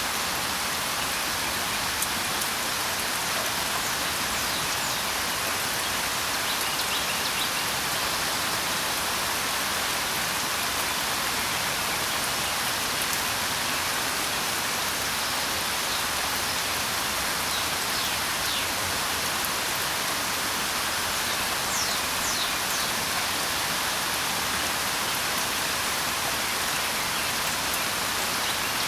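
Steady rain falling, an even hiss that does not let up, with a few faint bird chirps here and there.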